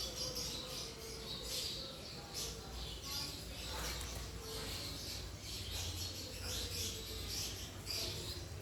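Small birds chirping, short high chirps repeating over and over, over a faint steady low hum.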